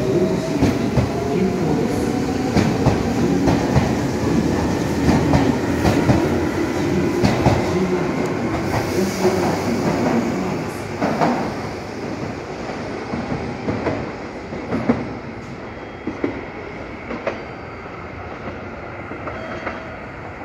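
Red Meitetsu electric train pulling out of the station: wheels clack over the rail joints under a low rumble, and a faint motor whine rises slowly in pitch as it accelerates. After about twelve seconds the sound fades as the train draws away, leaving only scattered clacks.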